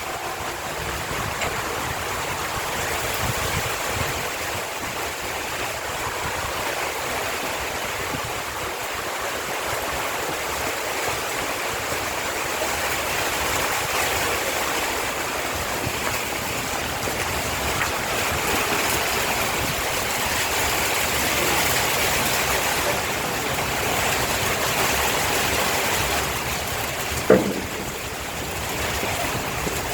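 Heavy rain falling, a steady rushing hiss. About 27 seconds in, one brief sharp knock stands out as the loudest moment.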